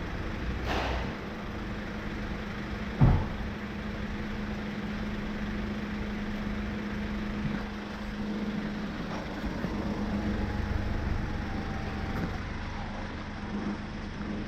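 Hyundai Porter truck engine idling steadily, with a single sharp thump about three seconds in.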